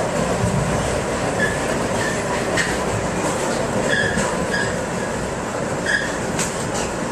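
Steady rumble and rail noise inside a Metro-North passenger coach running at speed behind a P32 diesel locomotive, with a few faint, brief high squeaks.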